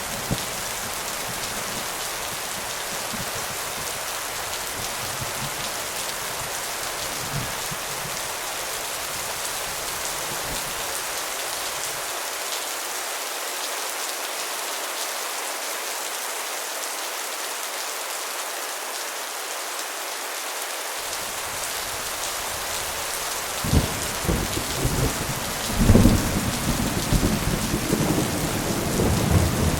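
Steady rain falling hard, with thunder rumbling in low about two-thirds of the way through and rolling on more loudly near the end.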